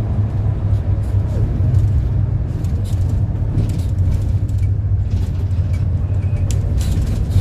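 City bus running along the road, heard from inside the cabin: a steady low engine and road drone, with brief high noises now and then.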